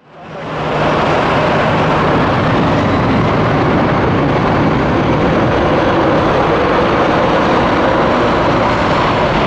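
Jet airliner engines running loud and steady, a continuous rushing noise with no change in pitch. It fades in quickly within the first second.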